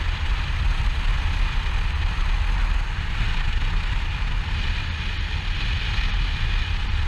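Riding noise on a moving motorcycle: steady wind buffeting the microphone, with a low rumble of the bike and road underneath. No break or change through the stretch.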